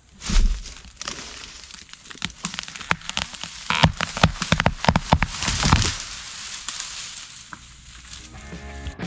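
Wood cracking and snapping. A heavy low thump about half a second in is followed by a thick run of sharp cracks that builds for a few seconds and then dies away.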